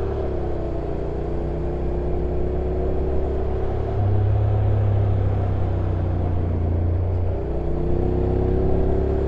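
Honda NC750X DCT motorcycle's parallel-twin engine running on a downhill ride. The note dips slightly in the first second, gets louder from about four seconds in to about seven, then rises steadily in pitch near the end.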